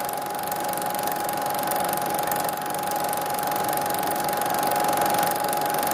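Steady mechanical running noise: an even whir and hiss with a constant high hum, unchanging throughout.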